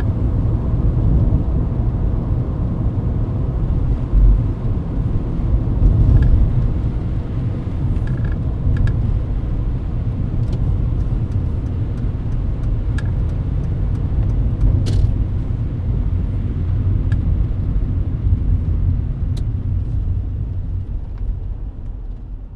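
Mercedes-Benz W124 heard from inside the cabin while driving on a wet road: a steady low rumble of engine and tyres, with a few faint clicks scattered through the middle. It fades out near the end.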